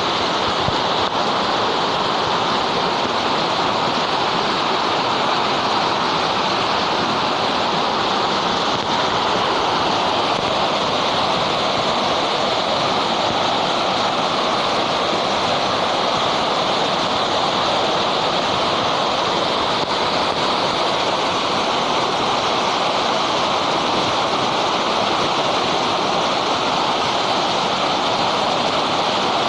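Waterfall: water falling and rushing in a loud, steady roar with no let-up.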